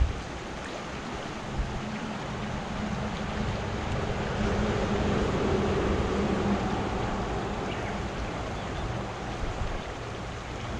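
Small stream of running water flowing steadily, with a low hum that swells and fades around the middle and some wind buffeting on the microphone.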